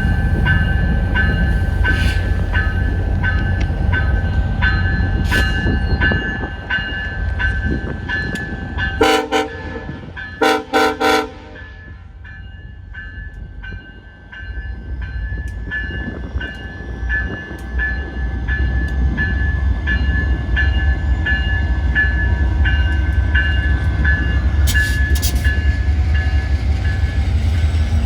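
Two diesel locomotives doubleheading a departing VIA Rail passenger train: heavy engine rumble, with a few short horn blasts about nine to eleven seconds in. A bell rings steadily, about twice a second, through most of it, and the rumble drops for a few seconds after the horn before building again.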